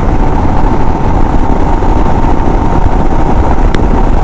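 Royal Enfield Himalayan motorcycle riding on the road: a steady rush of wind and engine noise on the rider's camera microphone, with one short click near the end.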